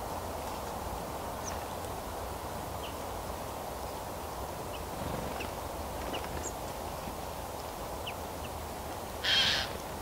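Forest ambience: a steady background hiss with scattered faint, short bird chirps, and one loud, harsh bird call about nine seconds in.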